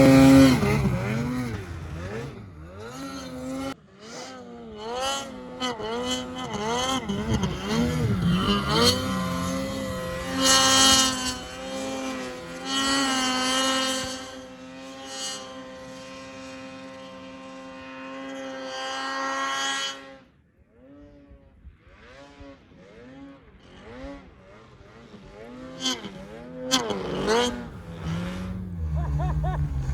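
Snowmobile engine revving, its pitch swinging up and down again and again, then held at a steady high rev for several seconds. It drops away quieter about two-thirds of the way through, and revs rise and fall again near the end.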